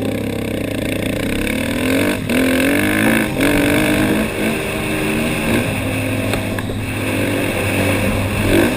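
KTM motocross bike's engine revving as it is ridden round the track, its pitch climbing and dropping over and over with throttle and gear changes.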